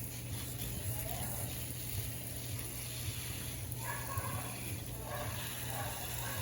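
Water being poured over soil in a small planting pot, a steady trickling hiss, with faint voices in the background about two thirds of the way through.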